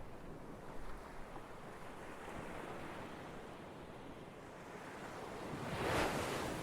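Ocean surf washing steadily, with one wave swelling to a peak about six seconds in and then falling back.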